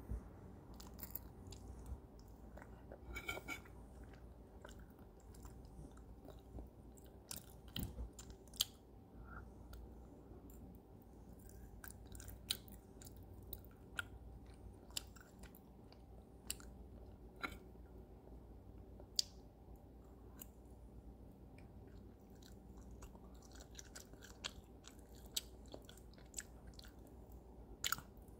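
A person chewing a mouthful of turkey and scrambled eggs close to the microphone, with many scattered short, sharp clicks and smacks.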